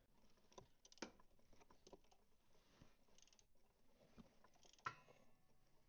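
Near silence, with a few faint clicks and taps of metal parts and bolts being handled in the engine bay. The clearest come about a second in and near the end.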